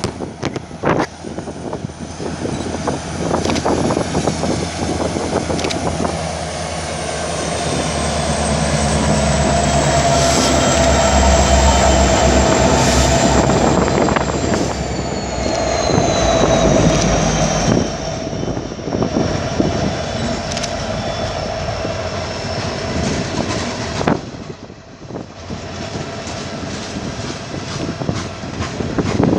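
A train passing on the tracks: wheels clicking over the rail joints, a thin high-pitched wheel squeal that slowly falls in pitch, and a deep engine drone that swells in the middle as the locomotive goes by, then fades.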